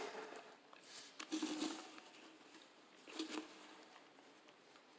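Soft handling noises: a few brief rustles and light knocks, about three, with quiet in between.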